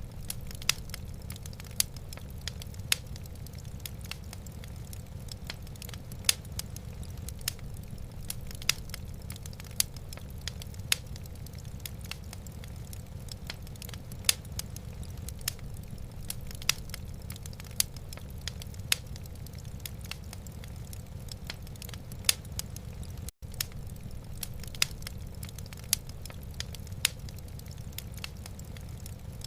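Wood fire crackling in a fireplace: sharp pops and snaps every half second or so over a steady low rumble, with a momentary dropout about three-quarters of the way through.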